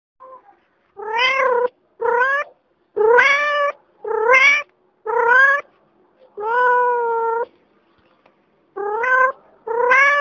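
Domestic cat meowing repeatedly, about eight meows in a row, each one rising in pitch. A longer, drawn-out meow falls in the middle of the run.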